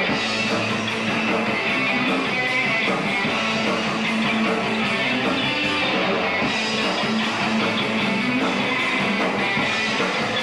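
Hard rock band playing live: electric guitars and a drum kit, steady and loud.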